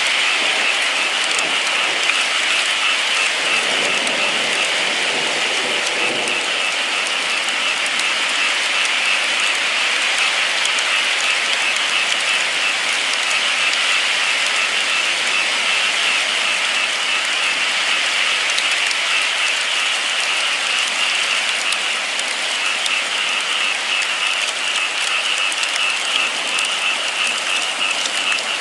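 Steady rainfall, an even hiss of falling rain with fine patter of drops.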